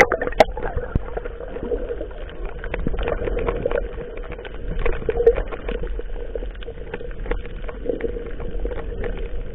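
Motorized fishing boat's engine running steadily, with water sloshing and scattered small knocks.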